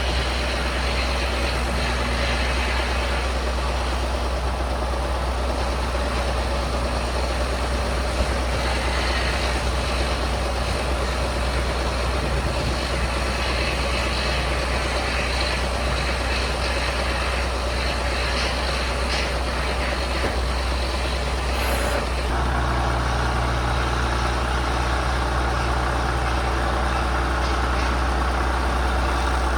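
Isuzu Forward heavy truck's diesel engine running steadily at idle. About three quarters of the way through, its note changes slightly and becomes a little louder, with a deeper hum.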